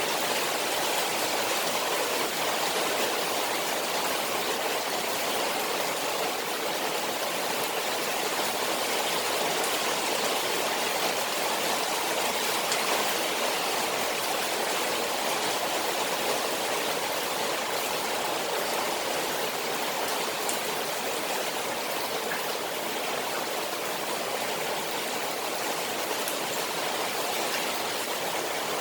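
Rain falling on a koi pond, with a steady, even rush of water.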